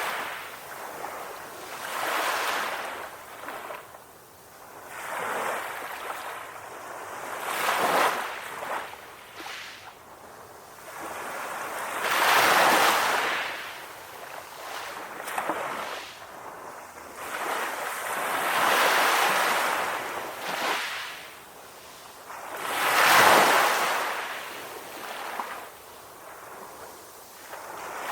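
Calm ocean waves breaking and washing up, a hiss of surf that swells and fades every few seconds. The biggest swells come about halfway through and again near the end.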